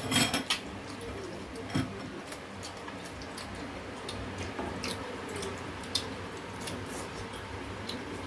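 Eating at a table: scattered light clicks and taps of utensils and dishes, with chewing. The loudest clatter comes at the very start, with another knock about two seconds in.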